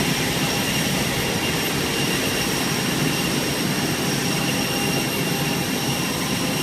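Airbus A320 jet engines running steadily: an even rush of noise with a constant high-pitched whine on top.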